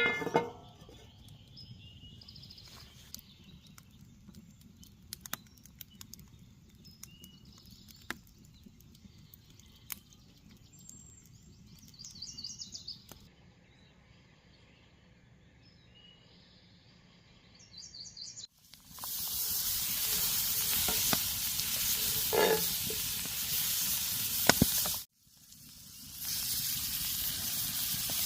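Steak sizzling on a hot griddle: a loud, even frying hiss that starts about two-thirds of the way in, breaks off for a moment and then carries on. Before it there are only faint small clicks and chirps.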